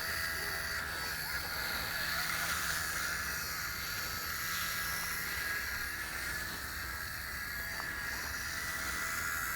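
Small electric RC helicopter hovering close by, a steady high whine of its motors and rotor that wavers slightly in pitch as the throttle shifts.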